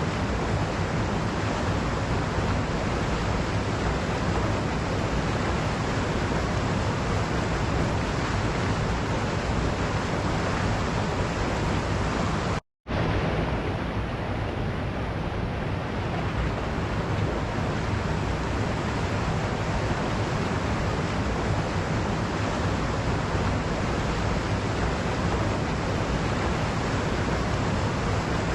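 Waterfall rushing steadily, an even roar of falling water. It cuts out to silence for a split second about halfway through, then comes straight back.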